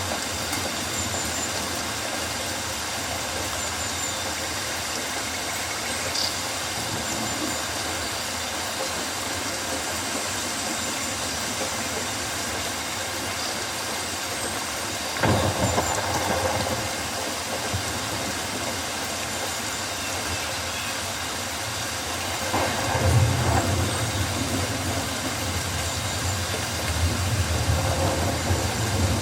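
Steady rain falling on rainforest foliage, an even hiss of raindrops on leaves. Low rumbles rise out of it about halfway through and again in the last few seconds.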